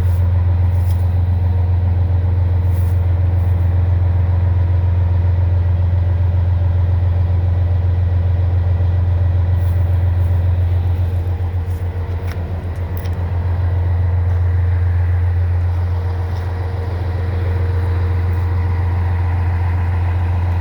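Diesel engine of a Scania 111 truck idling steadily with a deep, even drone, dipping briefly in level about twelve seconds in and again a few seconds later.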